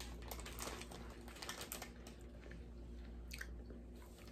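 Quiet chewing of a soft sponge snack cake, with scattered light crackles from its plastic wrapper, over a faint steady low hum.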